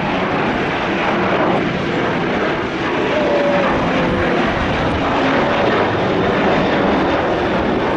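Jet airliner engines, a loud, steady rushing noise with a faint tone that dips slightly a few seconds in.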